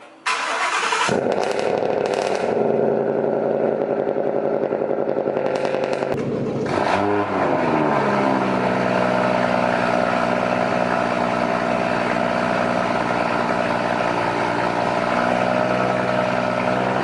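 Car engine starting up with a loud, noisy catch and then running. About six to seven seconds in its pitch dips and rises briefly, then it settles into a steady idle.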